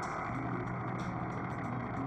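Truck engine running steadily, an even drone with a low hum.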